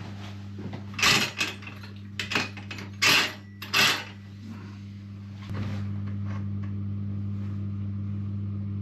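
A few sharp knocks and clatters of things being handled, over a steady electrical hum that gets louder about five and a half seconds in.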